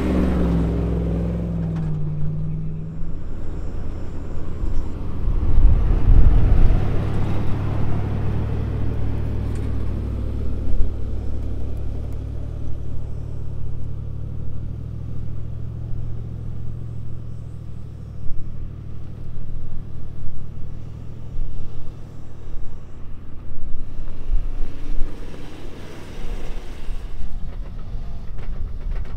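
Car engines running and pulling through soft beach sand. Near the start an engine note drops as an SUV drives past, and about six seconds in there is a louder rumbling stretch.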